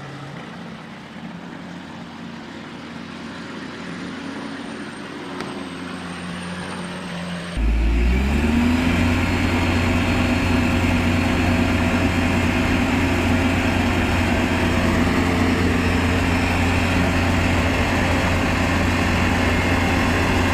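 Road vehicle engine hum, fairly quiet at first. About seven and a half seconds in it switches abruptly to a louder, deep, steady engine drone that rises in pitch briefly and then holds.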